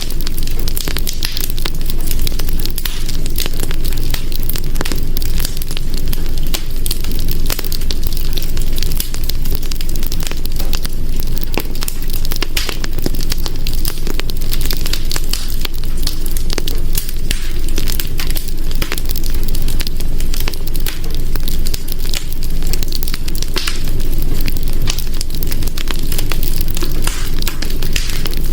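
Wood fire burning in a hearth, with a steady low rumble and a constant scatter of crackles and pops.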